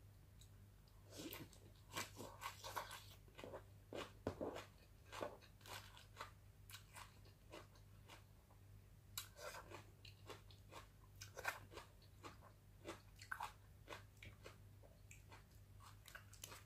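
Close-up eating sounds: soft crunching, chewing and wet mouth smacks as fresh leafy greens and adobo-braised catfish are eaten, in irregular bites with a pause near the middle. Faint, over a low steady hum.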